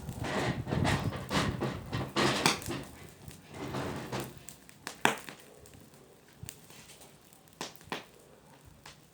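Bonfire of burning wood crackling, with sharp pops and snaps; dense and louder for the first four seconds or so, then only a few isolated snaps.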